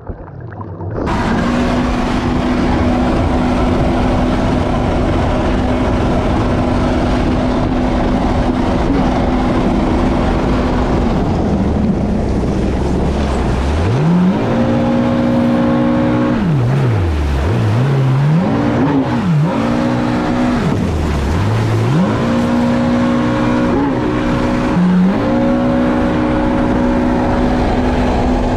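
Stand-up jet ski engine running at steady high revs, then dropping toward idle and climbing back up several times as the throttle is let off and reopened, before holding steady again near the end. A dense rushing noise lies under it.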